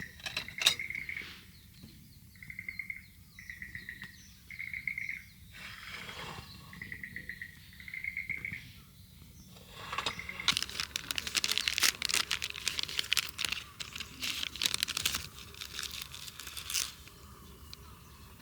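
A bird calling in short repeated trills, a burst about every second or two. About ten seconds in, a louder crackling, rustling noise takes over for several seconds.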